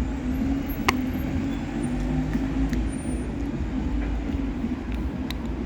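Bus engine idling with a steady low rumble and hum. A sharp click about a second in and a fainter one near the end.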